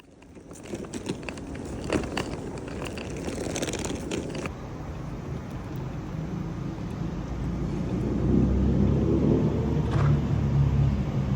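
Rumbling vehicle noise that grows steadily louder, with a few clicks and rattles in the first few seconds.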